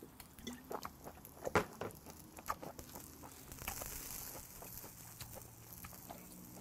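Faint chewing and mouth sounds of someone eating grilled beef offal: scattered small wet clicks and smacks, with a brief soft breathy hiss around four seconds in.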